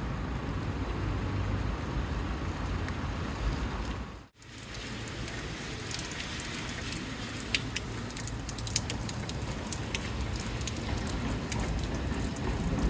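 Heavy rain pouring down on a city street: a steady rush with many sharp, close drop impacts. The sound breaks off for an instant about four seconds in, then carries on.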